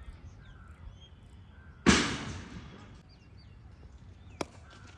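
Cricket bat striking a leather cricket ball in the nets: one loud, sharp crack about two seconds in that dies away over about a second, and a much lighter click near the end.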